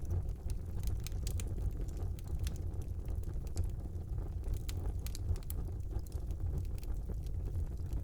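Wood fire burning in a fireplace: a steady low rumble of the flames with frequent small crackles and pops of the burning logs.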